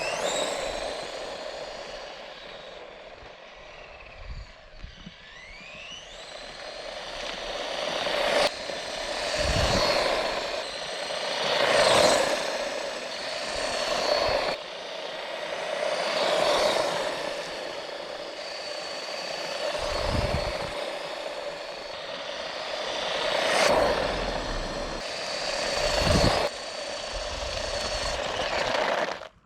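Small brushed electric motor of an HBX RC monster truck driving off-road. The motor whine rises and falls over and over as it speeds up and passes, over gritty tyre noise on loose ground, with a few deep thumps along the way.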